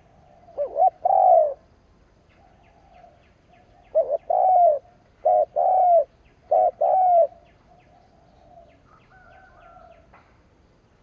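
Spotted dove (chim cu gáy) decoy bird cooing: a short two-note coo about a second in, then after a pause a longer phrase of paired coos.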